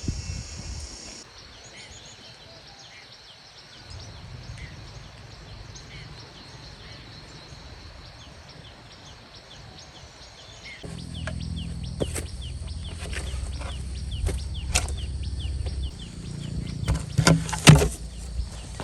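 Insects chirring steadily. About eleven seconds in a low rumble starts, along with a run of sharp knocks and clicks that get louder near the end.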